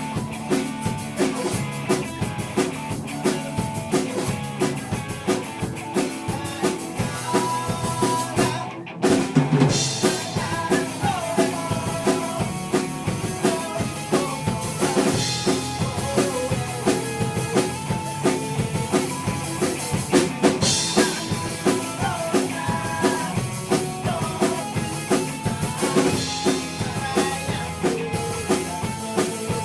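Live rock band playing a song with a full drum kit keeping a steady beat. About nine seconds in, the whole band stops for a moment, then crashes back in.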